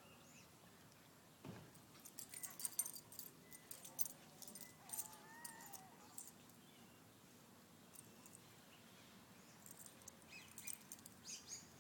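Faint jingling of dog collar tags and light scuffling from two puppies tugging on a leash, coming in short spells with quiet between.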